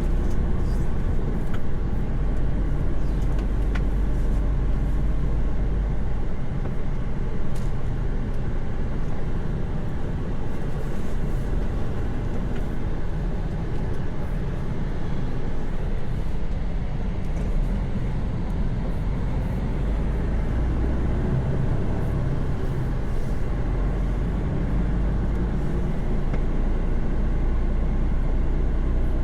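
Mercedes-Benz Actros truck's diesel engine and tyre noise heard from inside the cab while cruising on the motorway: a steady low drone. The deepest part of the engine note eases about six seconds in and builds again after about twenty seconds.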